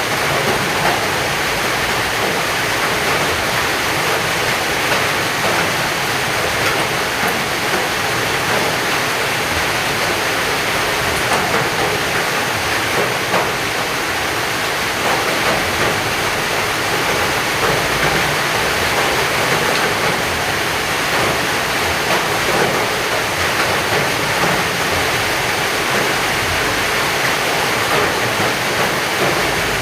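Heavy rain falling steadily: a loud, even hiss of water with countless small drop impacts, unchanging throughout.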